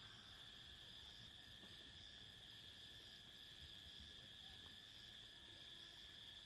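Faint, steady high-pitched chirring of crickets or other insects.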